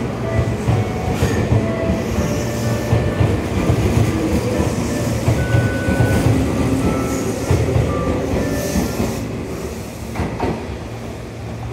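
Tobu 200 series six-car electric limited express pulling out and running past along the platform, its wheels clacking over rail joints. The sound drops off near the end as the train moves away.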